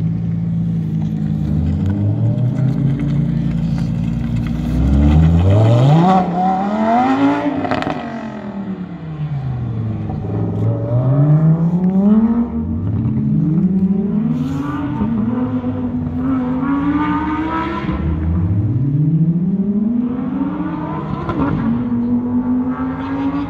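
Sports car engine idling, then revved up and down several times, each rev a slow rise in pitch followed by a fall back.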